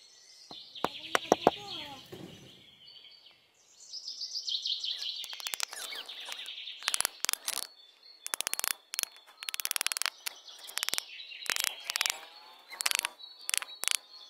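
Birds chirping and calling, mixed with a series of short, sharp clicks, loudest in a quick cluster about a second in.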